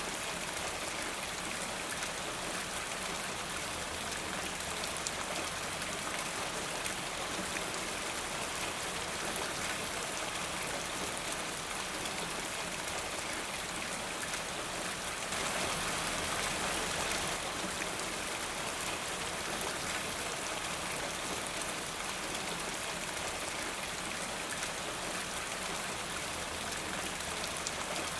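Steady rain falling, a dense even hiss of drops on a surface, swelling slightly about halfway through for a couple of seconds.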